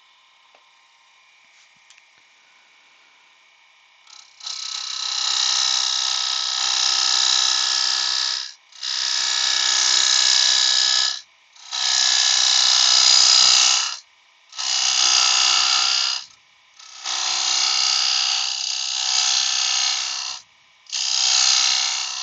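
Woodturning scraper cutting spalted beech spinning on a lathe. Six cutting passes of one to four seconds each, with short pauses between them, begin about four seconds in. A faint steady lathe whine runs underneath.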